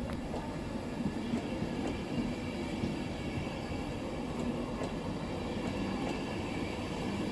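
InterCity 225 Mark 4 passenger coaches rolling slowly past: a steady rumble of wheels on the rails, with a few faint clicks.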